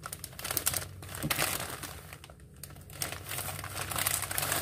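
Dry crinkling and crackling as hands handle large sheets of untoasted dried seaweed (laver), in two spells with a short pause a little past two seconds in.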